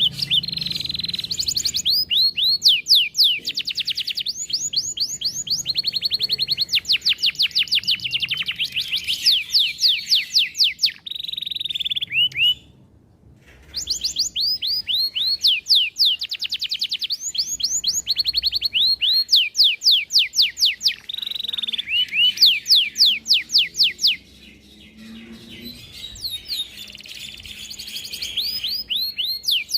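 Domestic canary singing a long, varied song: rapid rolls of repeated falling notes alternating with steady trills, with a short break about halfway through.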